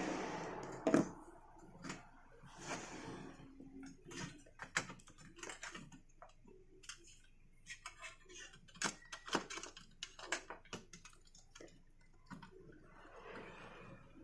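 Irregular light clicks and taps of small tools and parts being handled during electronics repair work, with a few brief hissy swells between them.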